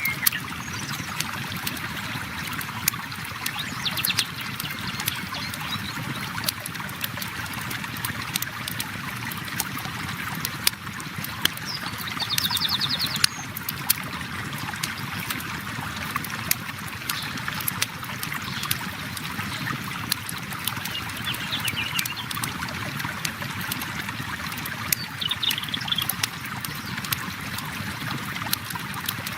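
River water flowing steadily, with a campfire crackling and popping in sharp irregular clicks over it. A few brief high bird trills come through, the clearest about twelve seconds in.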